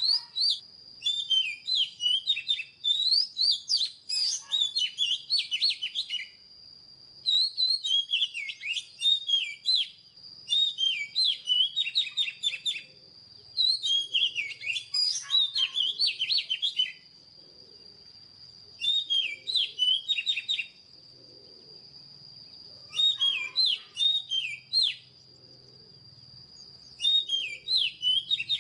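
Oriental magpie-robin singing in a series of phrases of quick, varied whistled notes, each two to four seconds long with short pauses between. A steady high-pitched whine runs beneath the song.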